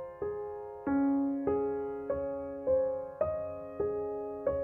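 Background piano music: a slow, gentle line of single notes, each struck and left to fade, about one every half second or so.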